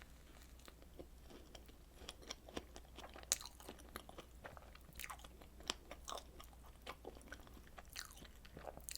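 Close-miked eating sounds of strawberry desserts: bites and chewing as a run of short, sharp, moist clicks, sparse at first and coming thick and fast from about two seconds in.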